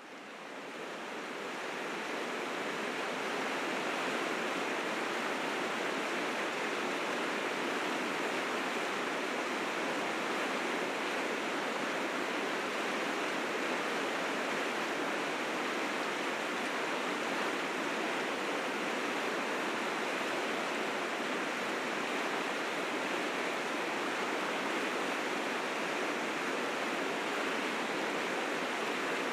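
River rapids rushing with spring meltwater in fierce currents: a dense, steady rush of water that fades in over the first few seconds and then holds even.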